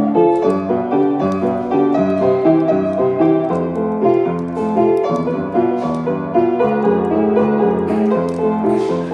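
Piano playing a lively melody over chords, a quick run of notes without a break.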